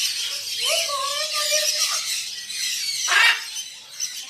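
A flock of birds chattering and twittering continuously. About half a second in there is a drawn-out, steady high cry lasting over a second, and about three seconds in a loud harsh squawk.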